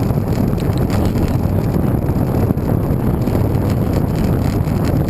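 Wind buffeting the microphone of a camera riding along on a moving road bike: a steady, loud low rumble with no break.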